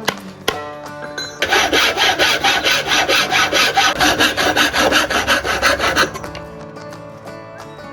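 A hand tool rasping back and forth in rapid even strokes, about five a second, starting about a second and a half in and stopping about six seconds in, over background music.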